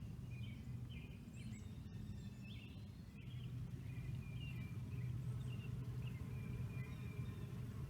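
Small birds calling and chirping in short repeated notes over a steady low rumble.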